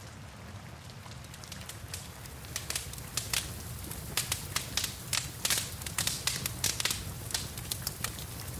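Wood fire crackling and popping in a fireplace, over a steady low rumble. The pops are sparse at first and come thick and fast from a couple of seconds in.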